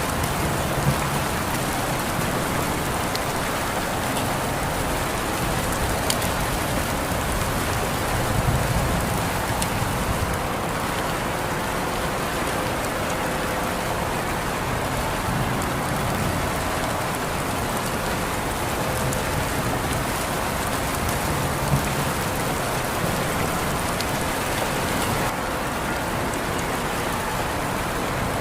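Steady rain falling and pattering on a surface, with scattered sharp drips and a brief low swell about eight seconds in.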